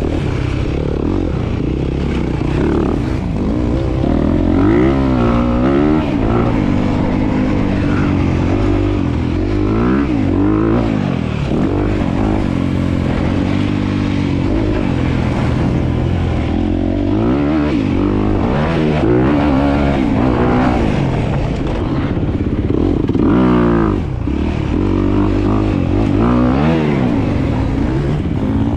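Dirt bike engine running hard and revving, its pitch rising and falling again and again as it accelerates and backs off.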